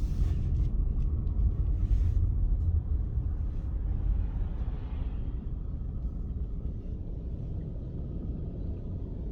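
Long train passing over a railroad crossing: a steady low rumble that eases slightly over the seconds, with a few sharp clacks in the first two seconds.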